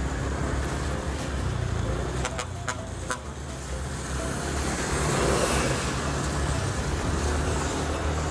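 Yamaha N-MAX single-cylinder scooter riding along the road, with steady engine and road noise. A few sharp clicks come about two to three seconds in, and a louder rush of noise about five seconds in.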